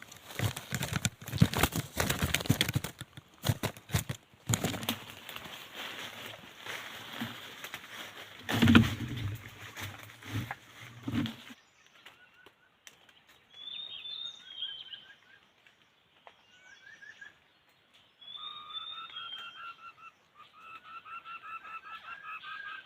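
Wings flapping with rustling and clatter for about half the time, then a bird calling in short, quick repeated phrases.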